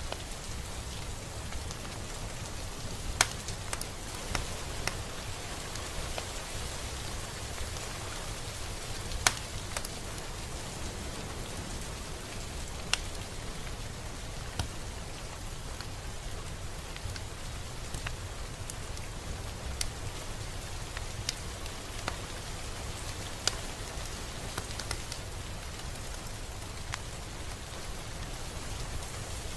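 Steady rain falling, a continuous hiss with scattered sharp drip and drop taps, two louder ones about 3 and 9 seconds in.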